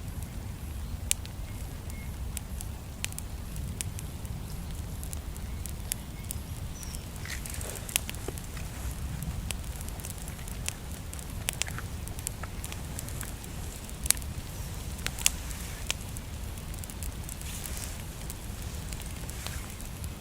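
Small campfire of natural kindling, freshly lit with one match, crackling with sharp pops at irregular moments over a steady low rumble.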